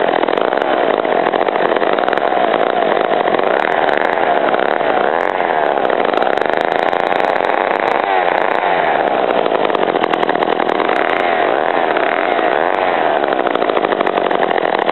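Vintage McCulloch 35 gear-reduction two-stroke chainsaw engine running, its pitch wavering up and down a little as the speed varies.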